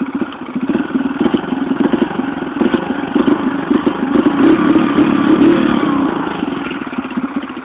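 125cc dirt bike engine running, its exhaust pulsing steadily, getting louder past the middle and dying down near the end.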